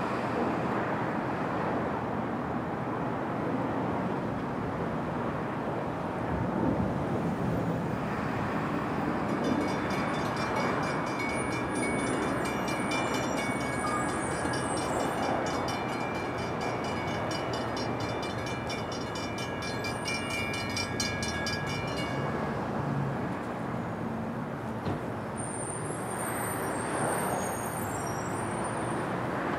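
NJ Transit commuter train passing with a steady rumble of wheels on rail. From about ten seconds in until about twenty-two seconds a high metallic ringing repeats evenly over it, and a brief high squeal comes near the end.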